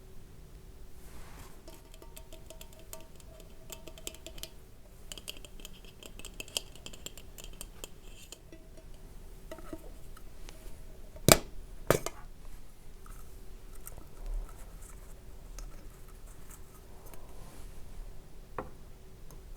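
A box of cotton pads handled close to the microphone: light tapping and crinkly clicking, then two loud sharp clicks about half a second apart a little past the middle.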